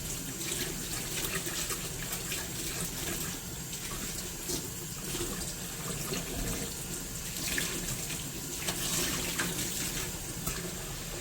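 Tap water running in a steady stream.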